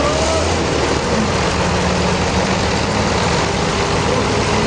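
Sawmill machinery running steadily: a heavy engine-like drone with a dense, even noise over it.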